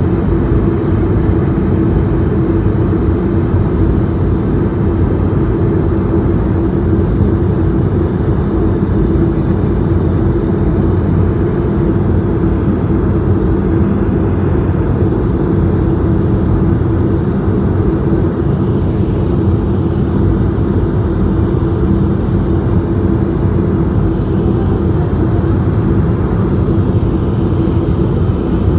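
Steady cabin noise inside a Swiss Airbus A220-100 airliner: the even roar of its Pratt & Whitney PW1500G geared turbofans and the airflow, deep and unchanging, with a steady hum running through it.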